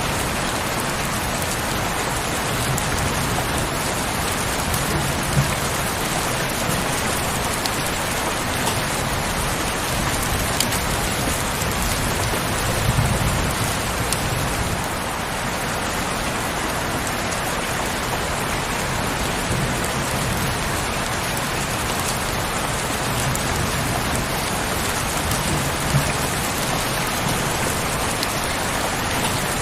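Heavy rain falling steadily on a window: an even hiss with the odd louder drop ticking against the glass.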